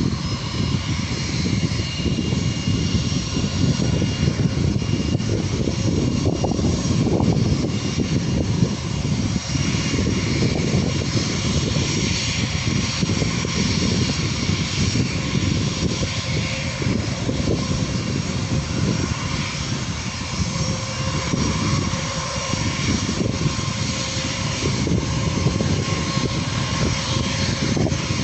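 Jet airliner engines running with a steady low rumble and a thin whine over it, the whine growing clearer in the second half.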